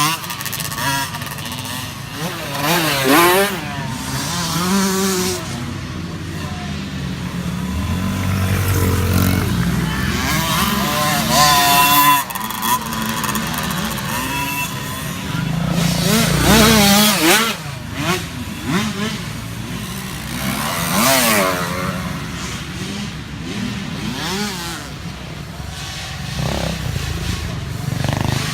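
Several small youth dirt-bike engines revving up and down as they ride around the track, their overlapping whines rising and falling again and again.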